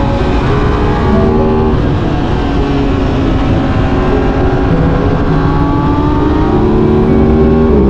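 Aprilia RS 660 motorcycle's parallel-twin engine under way at road speed. Its pitch climbs and holds with the throttle, then dips sharply near the end at a gear change.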